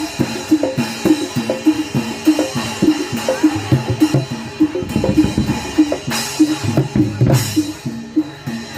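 Javanese gamelan music for a Barongan Blora dance: kendang drums under a steady beat of short pitched metal strokes, about two to three a second, with two louder noisy swells near the end.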